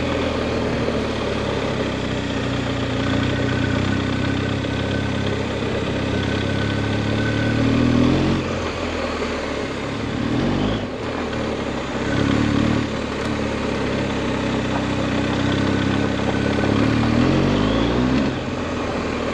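Adventure motorcycle engine running while riding a gravel road, its pitch rising and falling a few times as the throttle opens and closes.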